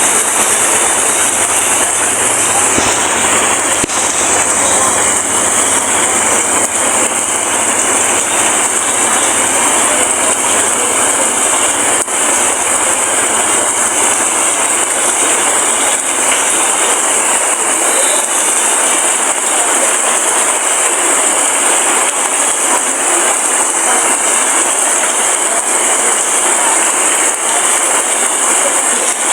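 Heavy rain falling in a steady, dense hiss without a break.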